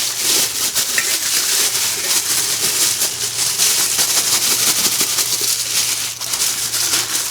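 Rustling, crackling handling noise with small clicks as a muffler is fitted onto a Stihl 041 AV Super chainsaw, over a steady low hum.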